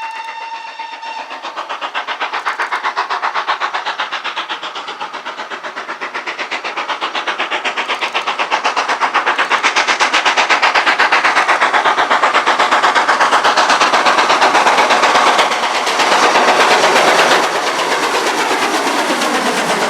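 Steam locomotive whistle ending about a second in, followed by a steam train drawing near with fast, rhythmic exhaust beats and rail clatter that grow louder until about three-quarters through.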